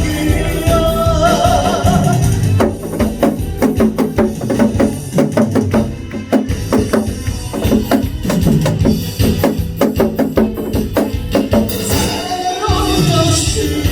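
Janggu (Korean hourglass drum) played over a trot-style backing track. From about three seconds in to about twelve seconds in, a fast, dense run of drum strokes fills an instrumental break, with the melody returning near the end.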